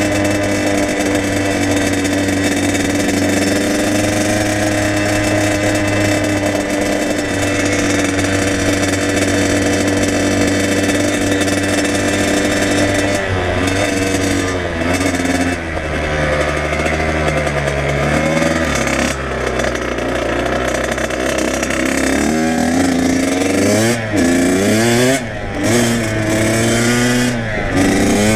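Kawasaki KX100 two-stroke dirt bike engine running at steady revs for about the first half, then revving up and down over and over as the throttle changes, with brief dips in the engine note near the end.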